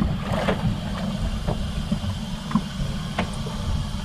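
Boat motor running with a steady low rumble, with a few sharp knocks scattered through it.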